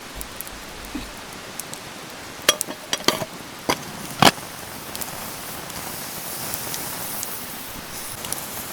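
Steady rain falling on a tarp, with a handful of sharp knocks between about two and four seconds in; after them the rain's hiss grows a little louder.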